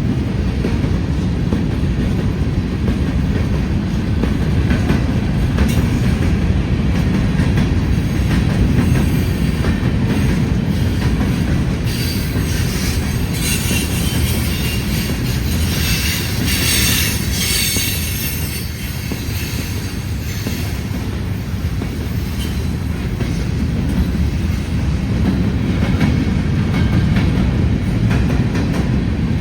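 CSX freight train rolling past, a loud steady rumble of wheels on rail, with metallic wheel squeal for several seconds around the middle.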